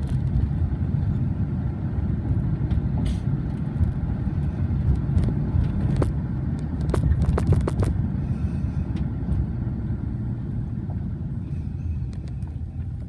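A car driving along a road: a steady low rumble of engine and tyre noise, with a handful of sharp clicks about six to seven seconds in.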